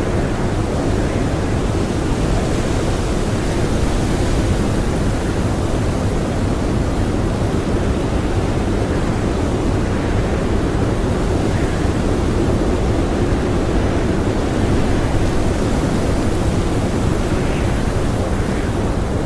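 Blizzard wind blowing hard and steadily: a dense, unbroken rush, heaviest in the low end.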